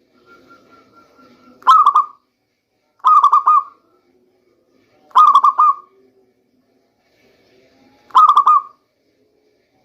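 Local zebra dove (perkutut) cooing: four short bursts of quick, stuttering coo notes, each about half a second long, spaced irregularly one to three seconds apart.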